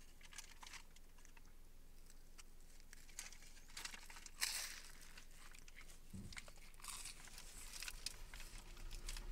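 A man chewing a toasted cheese sandwich close to the microphone, with small clicks and rustles and a louder crinkle about four and a half seconds in. A low engine rumble sets in about six seconds in.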